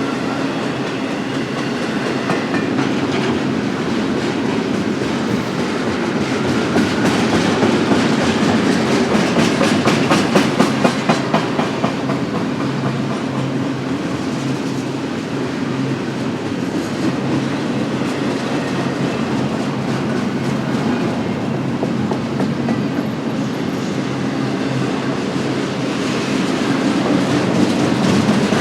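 Cars of a BNSF double-stack intermodal freight train rolling past: a steady rumble of wheels on rail with clacks as the wheels cross rail joints, and a quick run of louder clacks about ten seconds in.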